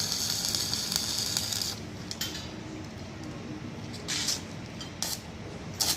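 Electric arc welding on steel steps: a steady crackling hiss of the arc that stops a little under two seconds in, then about four brief spurts of arc as short welds are struck.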